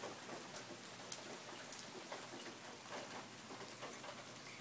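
Rain falling steadily, an even hiss with scattered sharp ticks of drops.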